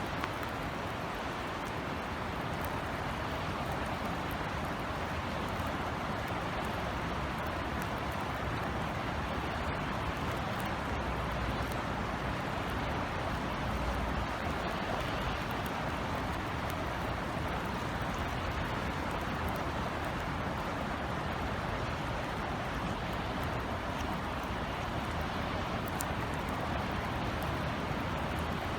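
Steady rain falling in a city, an even hiss with scattered drop ticks, over a low steady rumble of city ambience.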